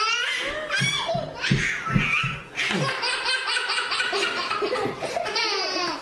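Baby laughing hard in repeated peals, breaking into a quick run of short 'ha-ha' pulses in the second half. A few low thumps come around two seconds in.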